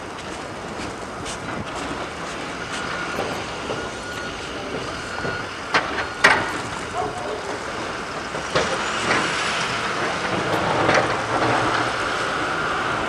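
A heavy vehicle running: a steady rumble and hiss that grows louder a little past the middle, with two sharp clanks about six seconds in.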